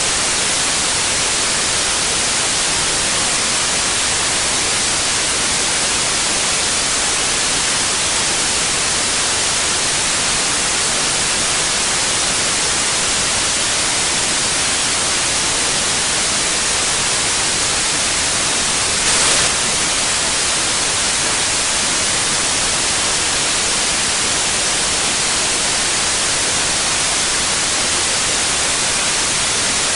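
Steady white noise: an even, unbroken hiss, with one brief, slightly louder patch about nineteen seconds in.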